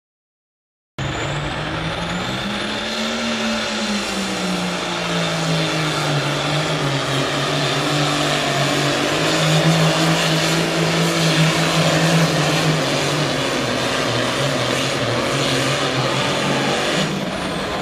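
Turbocharged diesel engine of a super farm pulling tractor running hard at high revs during a pull, cutting in loud about a second in. A high whine climbs near the start and falls away near the end.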